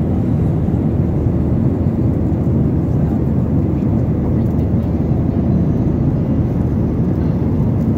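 Steady low rumble of airliner cabin noise, from the engines and rushing air, heard from inside the cabin.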